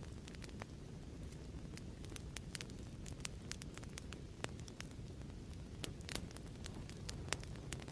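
Fireplace ambience: a wood fire crackling, with irregular sharp pops and snaps over a steady low rumble.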